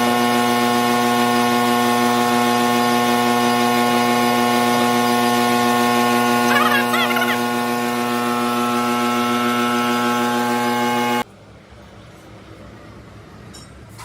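A machine running at a steady speed with an even, humming drone that cuts off suddenly about eleven seconds in, leaving faint background noise and a few light clicks.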